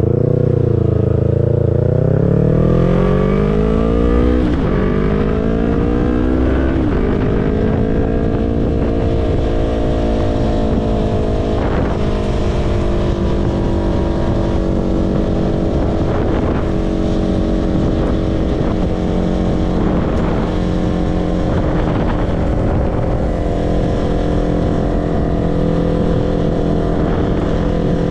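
Yamaha YZF-R3's parallel-twin engine pulling away from a turn: its pitch climbs through the lower gears, dropping sharply at two upshifts a few seconds in, then holds steady at cruising speed.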